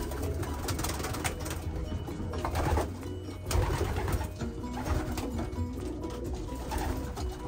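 Pigeons cooing in a loft, with many sharp clicks and scuffles scattered through.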